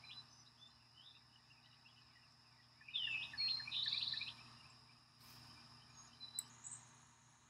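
A songbird sings a short phrase of quick chirps and a brief trill about three seconds in, against faint forest quiet. A faint steady high tone runs under it and stops near the end, with a couple of soft clicks.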